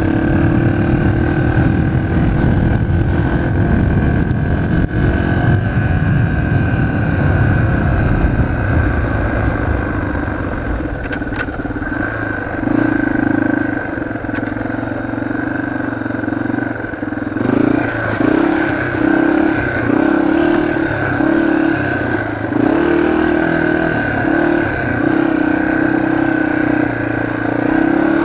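Motorbike engine running, heard through a microphone inside the rider's helmet. From about halfway the engine note comes and goes in repeated short surges, about one a second, as the throttle is opened and closed.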